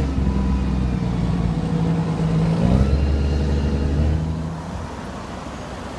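An engine running with a steady low hum, its pitch shifting about three seconds in, then fading over the last two seconds.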